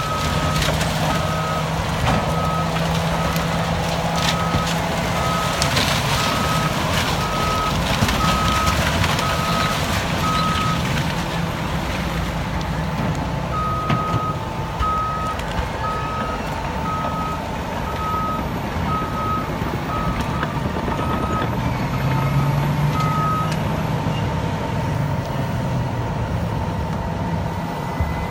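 Caterpillar D9 bulldozer running in reverse, its backup alarm beeping steadily at a little under two beeps a second over the diesel engine. The beeping stops for a couple of seconds near the middle, then resumes, and the engine note rises briefly near the end.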